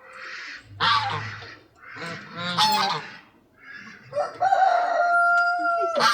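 Geese honking: a few short pitched calls, then one longer, steady held tone near the end, broken by a brief click.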